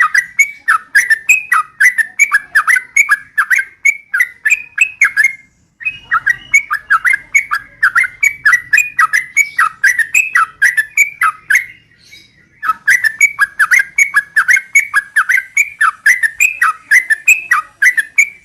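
Yellow-vented bulbul (trucukan) song: rapid, repeated bubbly chirps, about four a second, in three long bursts with short breaks about five and a half and twelve seconds in.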